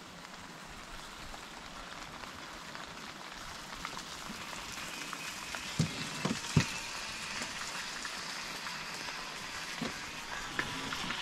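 Steady rain falling on the trees and the tent, an even hiss that slowly grows a little louder, with a couple of sharp knocks about halfway through.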